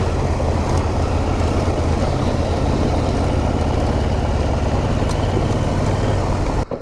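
Adventure motorcycle engine running steadily, with a steady rush of noise over it; the sound cuts off abruptly near the end.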